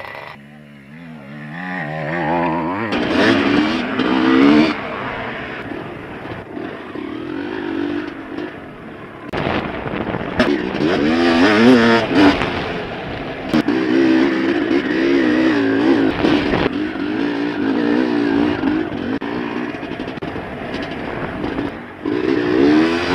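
Dirt bike engine under way on a trail, revving up and down as the rider works the throttle and gears. The sound jumps abruptly a few times where the footage is cut.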